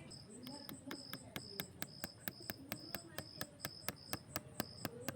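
Rapid, evenly spaced knocking, about four sharp strikes a second, with crickets chirping in a steady pulsing rhythm behind it.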